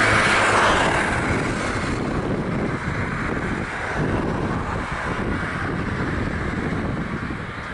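Boeing 737-800 jet engines on landing, fading steadily after the aircraft passes, with wind buffeting the microphone.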